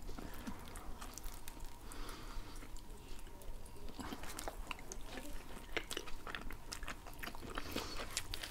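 Two people chewing and biting into shawarma wrapped in grilled lavash, close to the microphone: a steady run of irregular mouth clicks and small crunches.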